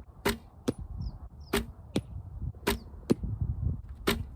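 35-pound recurve bow shots with arrows hitting the target: sharp cracks coming in pairs about half a second apart, four times over.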